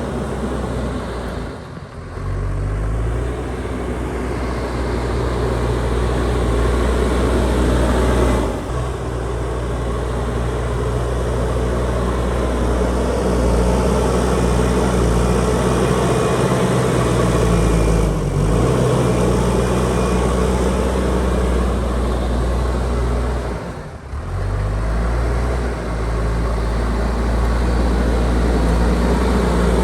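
JCB backhoe loader's diesel engine running at working revs as the machine levels a road, its pitch shifting up and down with the load, with a few brief dips in level.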